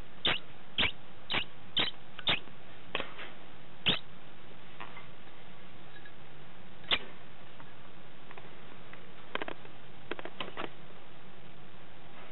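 A degu giving short, sharp squeaking calls after mating, about two a second for the first four seconds, then a single call and a quick cluster of fainter ones later on.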